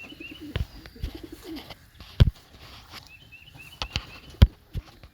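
Domestic pigeons cooing, with short high chirps, in a loft. Several sharp knocks, the loudest sounds, come through it: about six, spread out irregularly.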